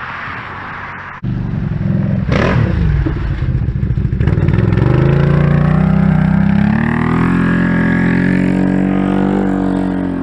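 Can-Am Outlander ATV's V-twin engine through an aftermarket exhaust, cutting in sharply about a second in and accelerating hard under load, its pitch climbing for several seconds, then holding steady before easing near the end.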